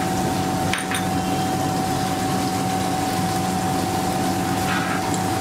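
Chopped onion and spices frying in oil in a kadai, a steady sizzle over a constant hum, with two brief clinks of a metal spatula, about a second in and near the end.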